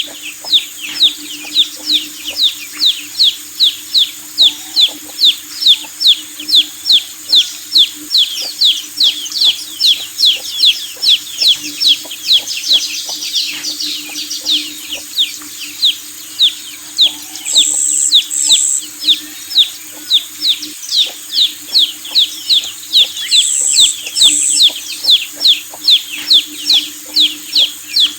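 Baby chicks peeping continuously: a fast stream of short, high, falling peeps, about three a second. A faint steady hum runs underneath, and there are two pairs of brief hisses about two-thirds of the way through.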